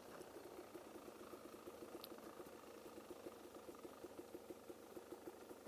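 Motorcycle engine idling, faint, with an even, rapid pulse.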